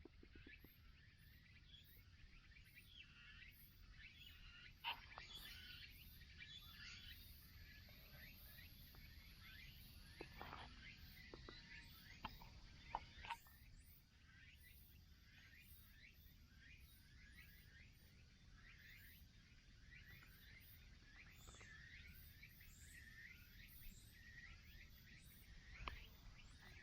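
Near silence with faint, scattered bird chirps and a few soft knocks.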